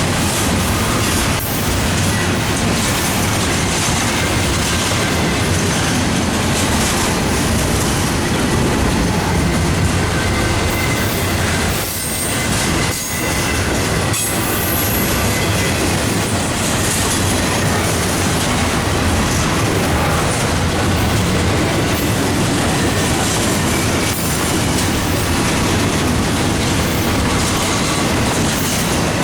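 Intermodal freight train cars rolling past on the track: a steady, loud rumble and rattle of wheels on rail, briefly dipping about twelve seconds in.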